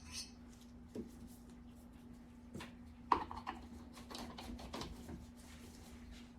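A few faint taps and light clinks of a stirring rod against its container as thick, gloppy liquid is worked down the rod, over a steady low hum.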